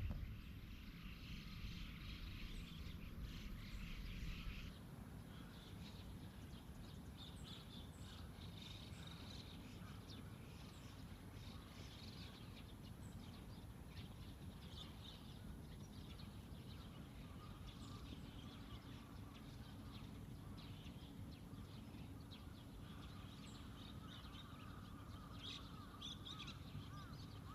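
Faint outdoor ambience with many small birds chirping and calling.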